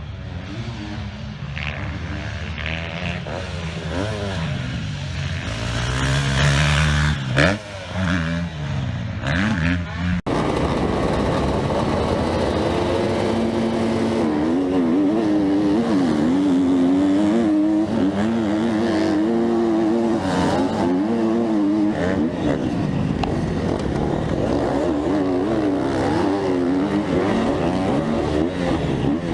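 KTM 250 SX-F single-cylinder four-stroke motocross engine, ridden hard on track. Its pitch rises and falls again and again through revs and gear changes, with a sudden break about ten seconds in.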